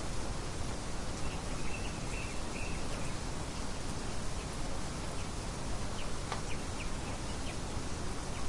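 Steady rain hiss, with a few short bird chirps in the first few seconds and some brief high chips later on.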